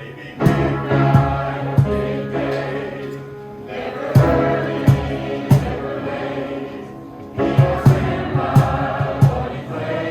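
Middle- and high-school choir singing a gospel-style song, with sharp percussive hits keeping a steady beat. The singing starts about half a second in.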